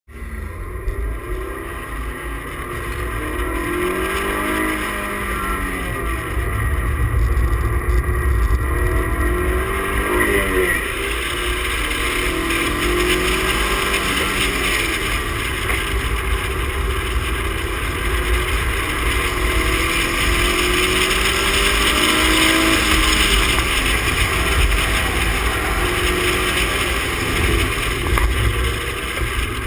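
2004 Toyota MR2 Spyder's mid-mounted 1.8-litre four-cylinder engine under hard driving, its revs climbing and dropping every few seconds as it accelerates and lifts. Underneath is a steady low rumble.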